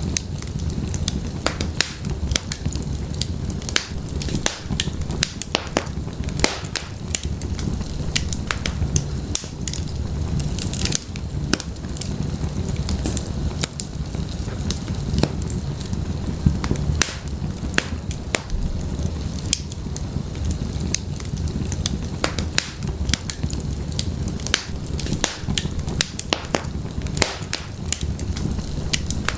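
Wood fire burning in an open fireplace: firewood crackling and popping with many sharp, irregular snaps over a steady low rumble of the flames.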